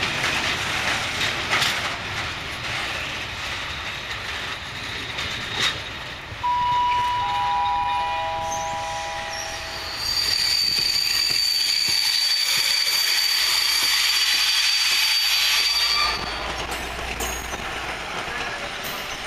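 Freight train of flat wagons rolling past, with steady wheel-on-rail noise and clicking over the rail joints. Partway through, a few held squealing tones come in, then a louder, higher-pitched wheel squeal for several seconds before the ordinary rolling noise returns as the last wagons go by.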